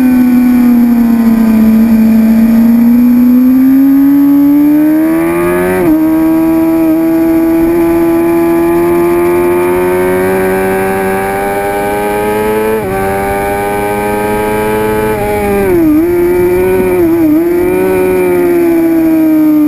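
2006 Suzuki GSX-R750's inline-four engine running hard at high revs, its pitch climbing under throttle with abrupt gear changes about six and thirteen seconds in. Near the end the pitch dips sharply twice and recovers.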